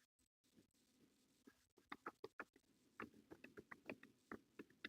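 Phillips screwdriver backing a screw out of a plastic vacuum housing: a run of faint, irregular small clicks and ticks, starting about two seconds in.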